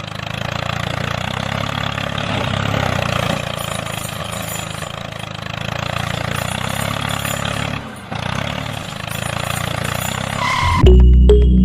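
A steady engine running, which fades briefly about eight seconds in and then picks up again. Music starts near the end.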